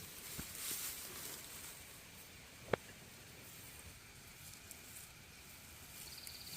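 Faint outdoor rustling and hiss, with a single sharp click a little under three seconds in and a brief high chirp near the end.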